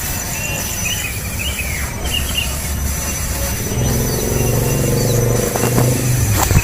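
A few short, high bird chirps, then a motor engine's low rumble growing louder over the second half.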